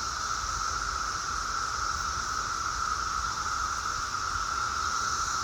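Steady outdoor insect chorus, crickets or similar, droning without pause at two pitches, one mid and one high and hissy.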